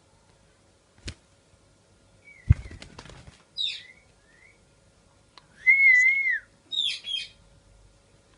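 Pet parrot calling: a thump and short noisy burst about two and a half seconds in, then short high chirps, a clear whistle that rises and falls near six seconds, and two harsh calls near the end.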